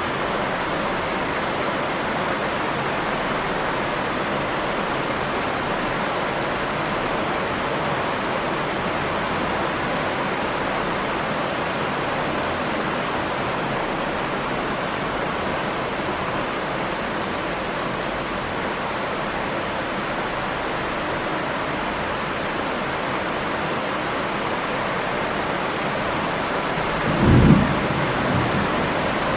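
Steady rain falling, with a short low rumble of thunder near the end.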